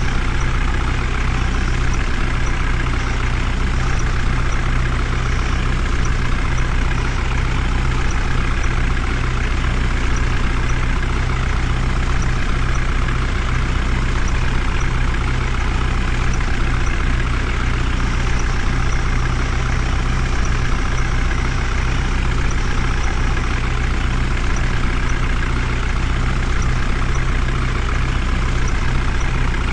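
Heavy vehicle engine running at a steady speed, a constant low drone that holds the same pitch throughout.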